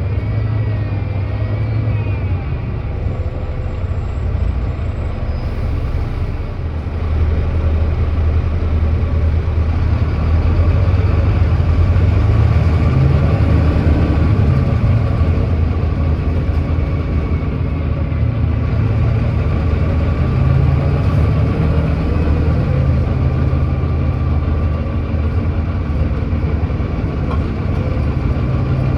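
Volvo D9B 9.3-litre diesel engine of a Volvo B9TL double-decker bus with a ZF Ecolife automatic gearbox, heard on board. It runs steadily, then about seven seconds in goes to full throttle under kickdown, pulling up a hill in 1st and changing up into 2nd. The bus has an exhaust leak.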